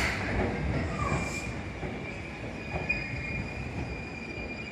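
Seibu 2000 series electric train rolling slowly past, its wheels rumbling on the rails, with a short noisy burst right at the start. From about two seconds in, a thin, steady, high-pitched wheel squeal sets in and holds.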